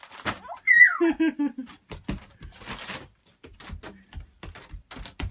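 A young child's voice: a high squeal sliding down in pitch about a second in, then a short wavering vocal sound, followed by scattered light taps and rustling.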